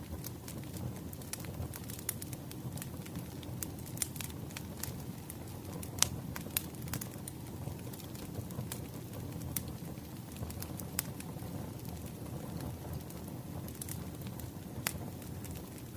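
Wood fire crackling: irregular sharp pops and snaps over a low, steady rumble of burning logs, the loudest pop about six seconds in.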